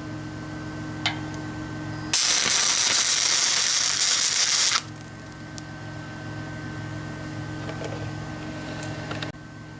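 Electric welder humming steadily. About two seconds in, a loud arc crackles for roughly two and a half seconds as a weld bead is laid on steel exhaust pipe, then the hum carries on alone.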